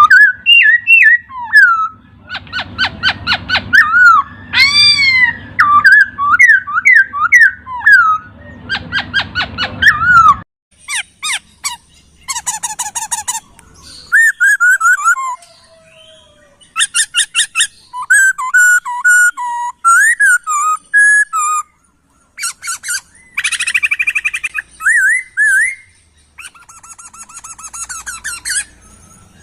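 Poksay (laughingthrush) singing a fast, varied song of whistled notes, up-and-down slurs and buzzy, rattling trills in quick phrases. A low hum sits under the song for the first ten seconds, then cuts off suddenly.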